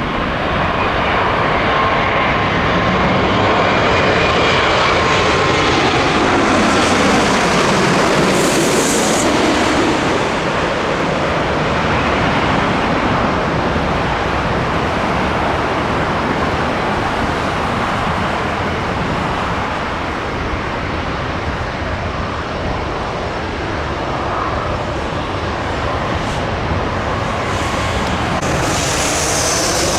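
Jet airliner passing low overhead, its engine whine sliding down in pitch as it goes over, followed by a steady jet roar.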